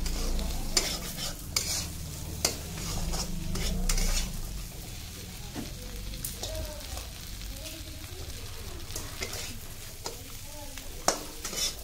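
Chopped okra sizzling as it fries in oil in a kadhai, while a metal ladle stirs it and scrapes and clinks against the pan, the strokes coming every second or so in the first few seconds and again near the end.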